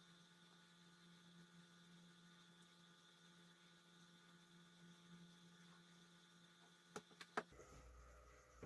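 Aquarium side filter's motor humming faintly and steadily, with no regular ticking. Near the end there are a few sharp clicks and the hum cuts off.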